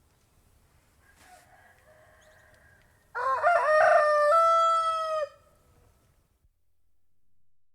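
Domestic rooster crowing once, loud and clear, about three seconds in: a choppy opening followed by a long held final note that breaks off. Fainter, quieter calls come before it.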